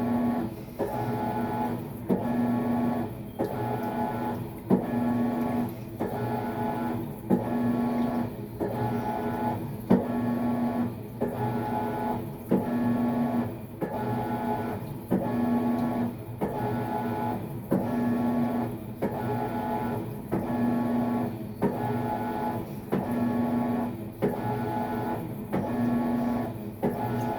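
Maytag MVWX655DW1 top-load washer agitating during a tub clean cycle: the motor hums through each stroke of the wash plate in a steady back-and-forth rhythm, nearly one stroke a second, with a brief pause and click between strokes.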